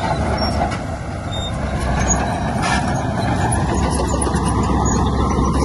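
Heavy diesel earthmoving machinery running steadily, with a short hiss about halfway through.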